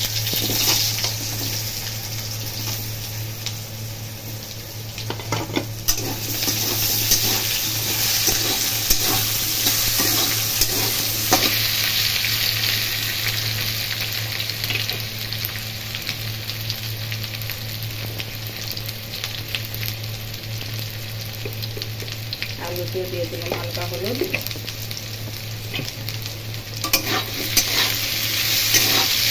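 Diced potatoes sizzling in hot oil in a metal kadai, with a metal spatula scraping and clinking against the pan as they are stirred.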